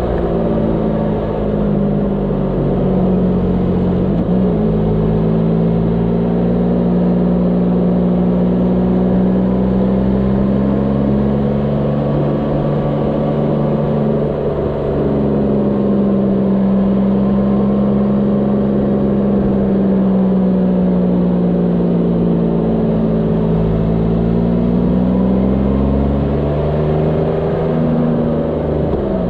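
Motorcycle engine running at road speed through a series of curves, a steady hum whose pitch slowly rises and falls with the throttle, with a few quick changes in pitch along the way.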